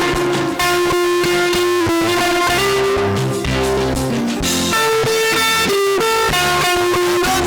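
Instrumental worship music led by an electric guitar playing a melody of held notes over bass and drums.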